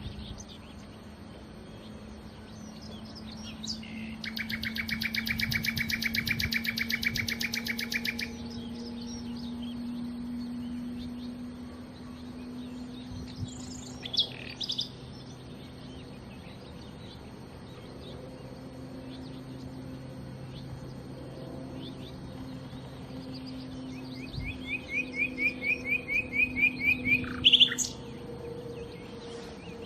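Nightingale singing: a dense, rapid trill lasting about four seconds, scattered single notes, then a run of repeated whistled notes that grow louder toward the end of the phrase, over a faint steady low hum.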